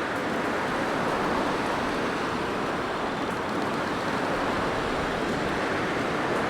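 Blizzard wind blowing steadily: an even rushing noise with no gusts, breaks or distinct sounds.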